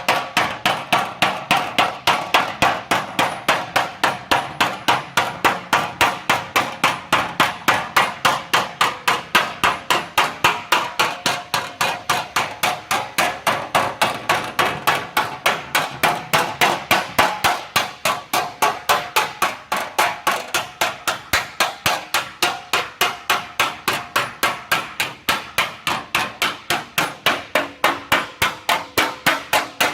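Steady, rapid hammer blows on a sheet-metal cowling panel, about four a second without a break, as the metal is worked down and shaped to its curve.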